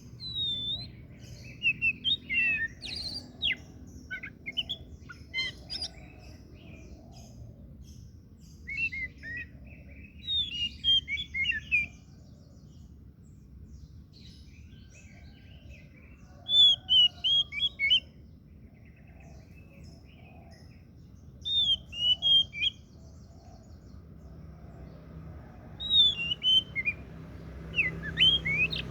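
Oriental magpie-robin (kacer) singing in bouts of quick, varied whistled notes and slurs, with pauses of a few seconds between bouts.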